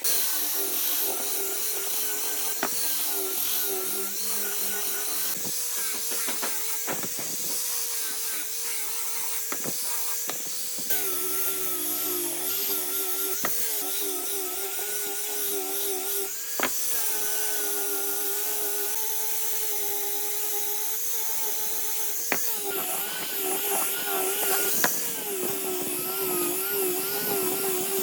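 An electric power tool's motor running steadily, its pitch wavering slightly, with a few sharp knocks along the way.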